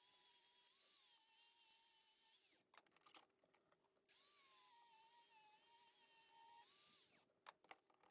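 Near silence: faint hiss with a faint wavering high tone, dropping twice to dead silence for about a second and a half.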